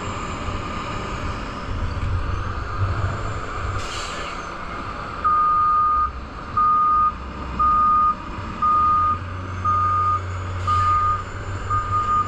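Gravel truck's diesel engine running with a low rumble, then about five seconds in its reversing alarm starts, a single-pitched beep about once a second. Two short hisses come through, one before the beeping and one near the end.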